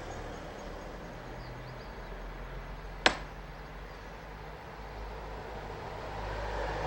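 Steady background hum of distant road traffic, with a single sharp click about three seconds in.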